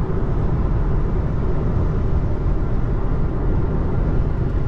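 Steady road noise inside an electric car's cabin: the Tesla Model 3's tyres running at freeway speed on wet pavement, with water spraying up.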